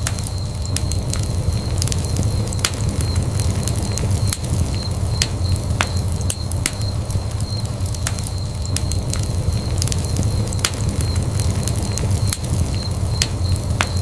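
Wood fire in a fireplace crackling, with frequent sharp pops and snaps over a steady low rumble of flames.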